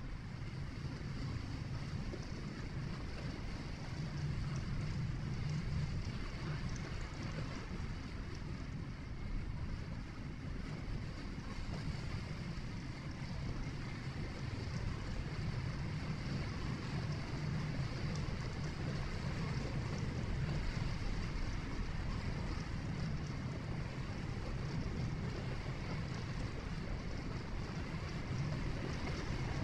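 Steady low rumble of a vehicle being driven, engine and tyre noise heard from inside the cabin, with an even hiss of road and wind noise on top.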